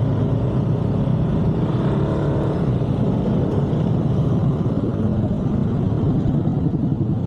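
Steady engine and road rumble of a moving motor vehicle, with no distinct impact.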